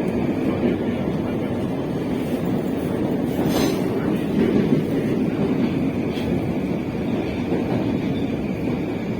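Moscow metro train running between stations, heard from inside the carriage: a steady loud rumble of wheels on rails. A faint steady high tone runs under it, and a brief high hiss comes about three and a half seconds in.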